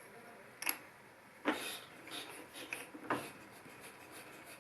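Metal tools being handled: a few sharp clicks and knocks, the loudest about a second and a half in, with light rubbing between. No drill is running.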